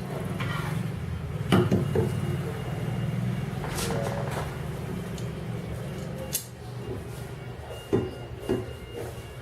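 Small metal screws and waveguide parts being handled and fastened by hand: scattered light clicks and clinks, a few seconds apart, over a steady low hum.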